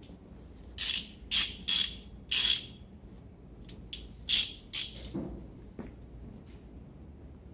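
Short bursts of metallic scraping and rattling, about four in the first half and two more about two seconds later, as metal brake parts are handled.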